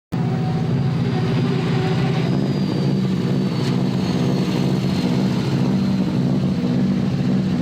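Rally car engine running at a steady, constant speed, a low even drone with no revving.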